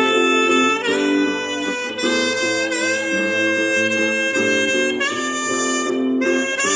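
Saxophone playing a slow melody of long held notes, changing pitch a few times, over a chordal accompaniment.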